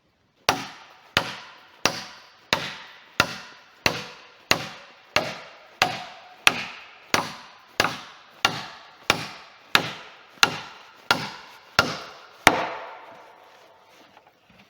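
A hand tool striking wood in a steady rhythm: about nineteen hard blows, roughly three every two seconds, each with a short ringing tail. The last blow is the loudest, and then the blows stop.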